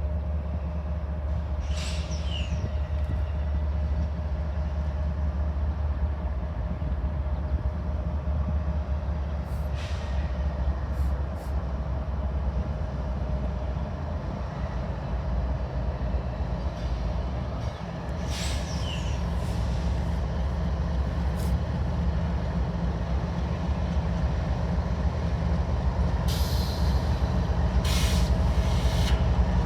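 Diesel freight locomotives running with a steady low engine rumble that grows louder near the end, with a few brief high-pitched squeaks now and then.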